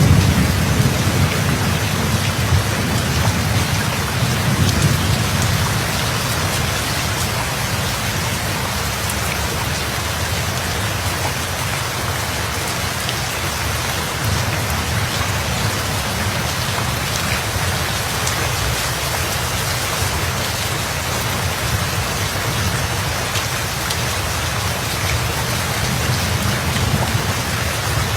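Steady heavy rainfall with a low thunder rumble that fades out over the first few seconds, leaving an even hiss of rain.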